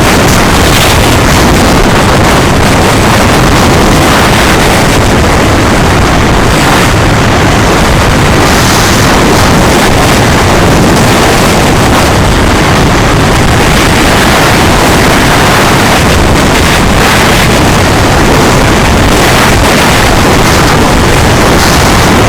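Loud, steady noise of a moving vehicle with wind buffeting the microphone.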